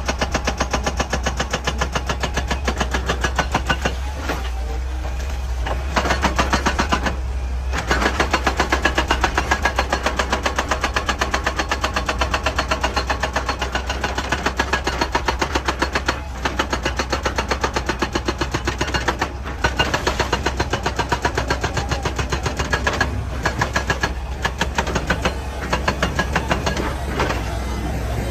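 Excavator working, its diesel engine running under a rapid, even pounding of about five strokes a second that stops briefly several times.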